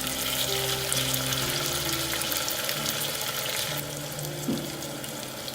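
Chopped tomatoes sizzling in hot oil in a pan with eggplant and spices, a steady hiss that eases about four seconds in.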